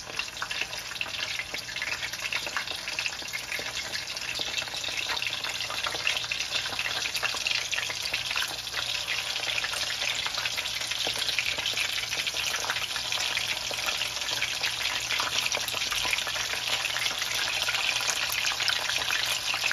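Meatballs frying in shallow oil in a pan: a steady sizzle full of small crackling pops, growing a little louder toward the end.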